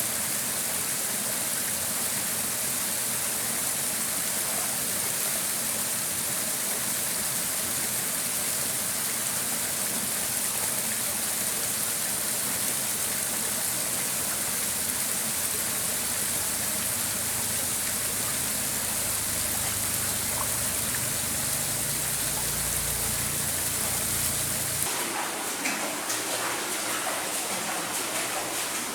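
Stream water rushing steadily over stones. About 25 seconds in, the sound changes to a lighter, splashier running with small clicks and knocks.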